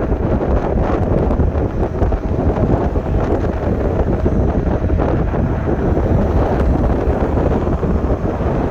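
Wind buffeting the chest-mounted camera's built-in microphone while riding an electric scooter at about 20 to 25 mph: a steady, loud rumbling rush.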